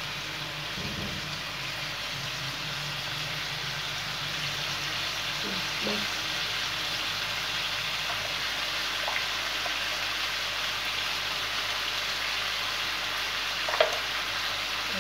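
Mutton pieces frying in oil on a tawa griddle: a steady sizzling hiss. A single short knock sounds near the end.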